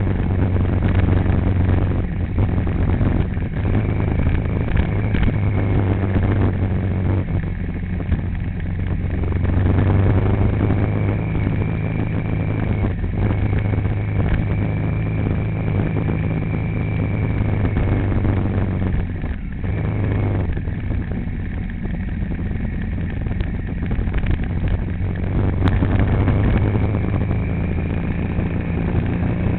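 A vehicle engine running steadily with a low hum under a constant haze of road noise, heard from inside the moving vehicle.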